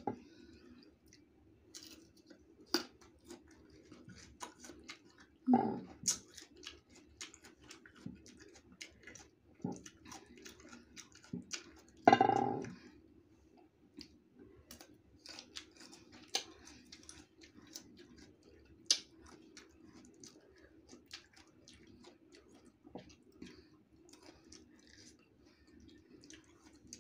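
Close-up chewing of raw green mango: irregular crisp crunches and mouth clicks, with two louder, longer mouth sounds about five and twelve seconds in.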